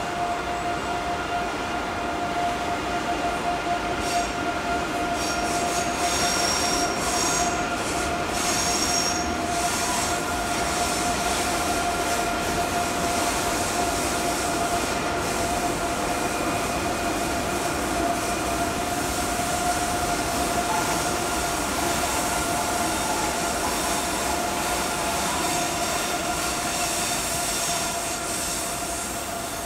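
ICE 3 high-speed trainset rolling past at low speed, a steady running noise with a high tone held at one pitch above it. The sound fades as the last car passes at the end.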